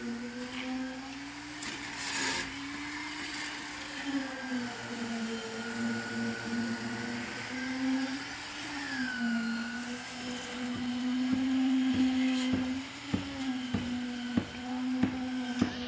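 Machinery whine from the concrete pour, steady in pitch but sagging and recovering now and then as the machine takes load. From about ten seconds in, sharp knocks repeat roughly twice a second.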